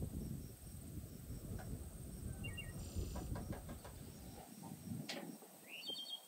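Short bird chirps, one rising near the end, over a low rumbling background, with a few light knocks. The rumble drops away after about four and a half seconds.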